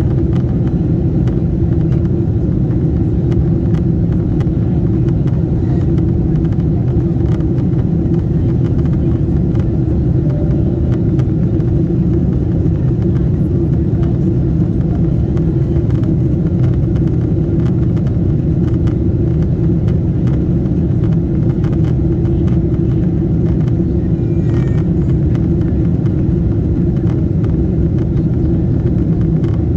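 Steady low rumble of a Lufthansa Boeing 747-8's engines and airflow, even and unbroken throughout.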